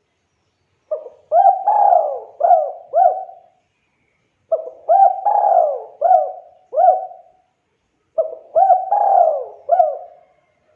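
Spotted dove (tekukur) cooing: three repeated phrases, each of about five hooting notes, coming about every three and a half seconds.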